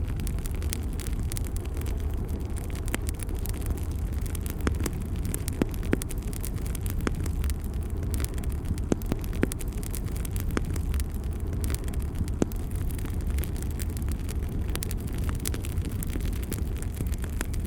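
Bonfire burning: a steady low rumble of flames with irregular sharp crackles and pops from the burning wood.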